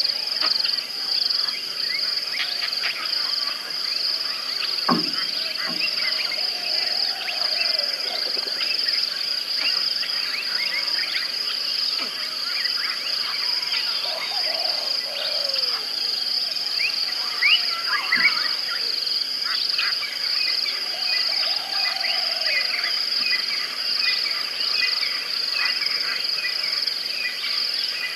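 Continuous chorus of frogs and insects: a steady, high, pulsing trill with many short chirps over it. A few faint falling calls come through lower down, and there is one sharp click about five seconds in.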